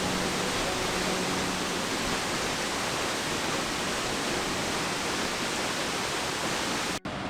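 Steady rush of water, an even unbroken hiss of falling or flowing water. It cuts out abruptly near the end and comes back quieter.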